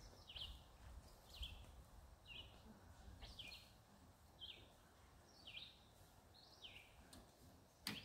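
A bird repeating one short, high chirp about once a second, against a faint low rumble.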